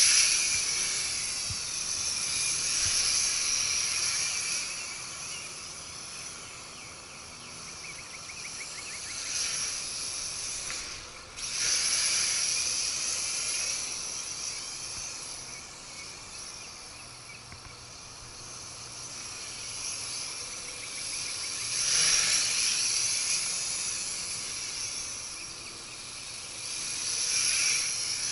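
Nihui U807 toy quadcopter flying on a fresh set of WLtoys V636 motors, its motors and propellers giving a high buzzing whine. The whine swells and fades several times as the quadcopter moves and the throttle changes, with a brief drop about a third of the way in.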